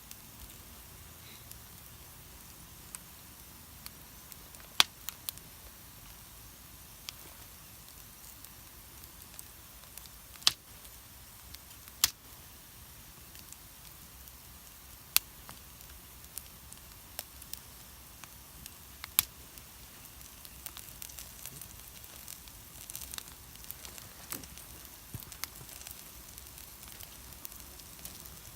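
Birch-wood campfire crackling over a steady hiss, with a handful of sharp, loud pops spread through it and busier small crackling in the last third.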